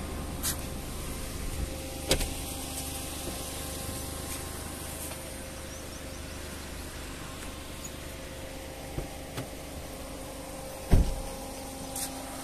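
A small car's engine idling steadily, with a few light knocks and one louder thump about eleven seconds in.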